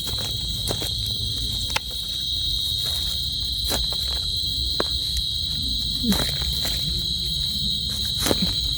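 Steady, high-pitched chorus of night insects, with scattered light clicks and rustles over it.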